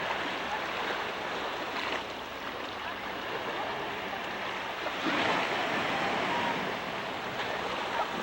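Surf washing onto a beach, a steady rush that swells about five seconds in.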